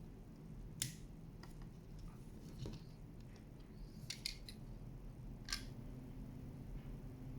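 A few short, sharp clicks and taps, like small die-cast and plastic toy parts being handled, over a steady low hum.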